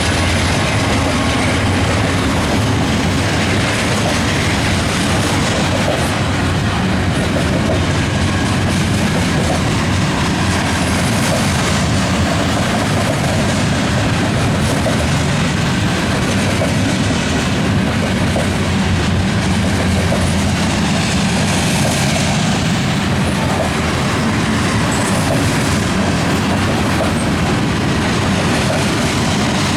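Manifest freight train rolling past at steady speed, a continuous loud rumble of wheels on the rails.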